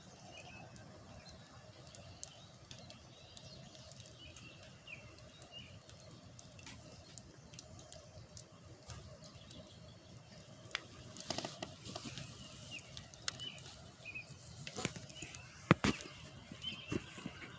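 Faint bird chirps repeating over a low background hum, with scattered sharp clicks and knocks from about ten seconds in, the loudest a single knock near the end.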